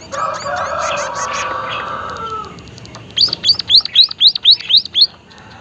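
White-headed munia (emprit haji) singing: a drawn-out, low-pitched note with high chirps above it for about two and a half seconds, then a fast run of about eight loud rising whistled notes, about four a second.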